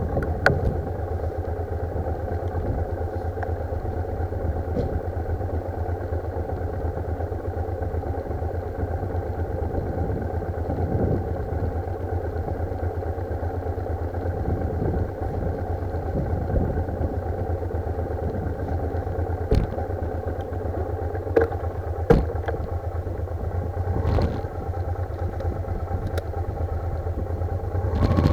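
Motorcycle engine running steadily, heard through a camera mounted on the bike, with a few short sharp clicks about two-thirds of the way through.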